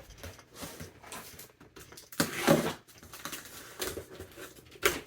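Rustling and handling of cardboard and plastic parts packaging, in short bursts, with the loudest rustle about two seconds in.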